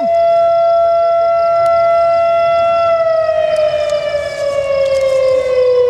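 Outdoor tornado warning siren wailing: a steady held tone that, about three seconds in, starts to fall slowly in pitch. It signals the tornado warning in effect.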